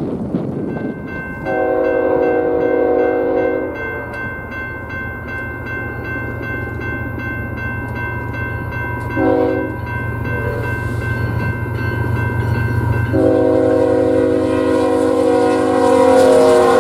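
Diesel locomotive sounding its multi-note air horn as it passes: a long blast, a short one, then a long one held through the end, over the steady low rumble of the engine. A steady high ringing with regular ticks runs underneath.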